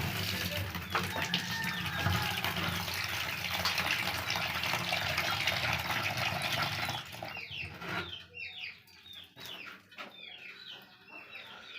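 A steady rushing noise for about seven and a half seconds, which then drops away, leaving Aseel chickens chirping with short, high cheeps that fall in pitch.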